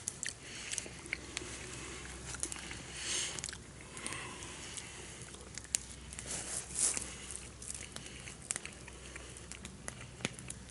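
Faint scattered clicks and light rustling, with a couple of short soft scraping noises about three seconds in and again near the middle.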